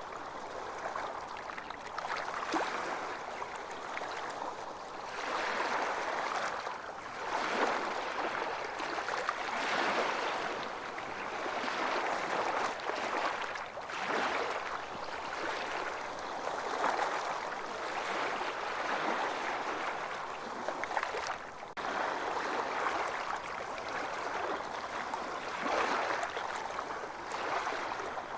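Ocean waves washing onto a beach, a steady wash of surf that swells and recedes every few seconds.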